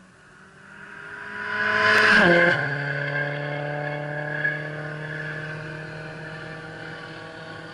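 Rally car engine at full throttle approaching and passing close by about two seconds in, its note dropping sharply as it goes past, then holding a steady note as it drives away and fades.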